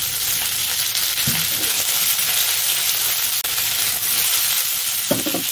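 Pieces of bighead carp belly frying with ginger and red pepper in hot oil in a wok, a steady sizzle.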